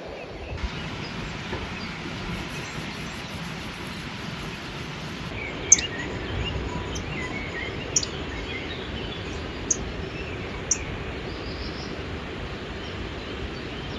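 Steady outdoor rushing noise with birds chirping briefly in the middle, and four sharp ticks a second or two apart.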